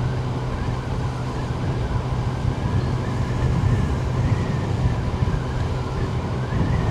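Yamaha Tracer 900's three-cylinder engine running at a steady cruise with a constant low hum and no change in revs, under road noise.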